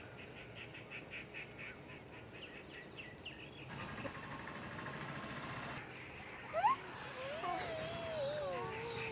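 Rural outdoor ambience: birds chirping rapidly at first, then a sharp click and a long wavering call that slowly falls in pitch near the end.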